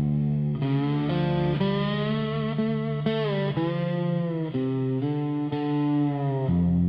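Dark country instrumental passage led by an electric guitar played with distortion and effects, sustained notes with bends over a low bass line.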